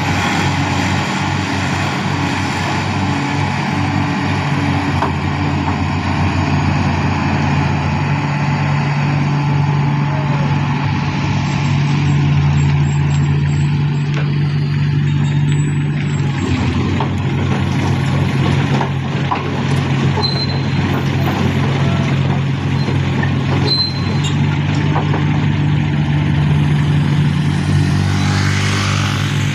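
Heavy diesel engine running steadily, its pitch stepping up and down a few times as the revs change.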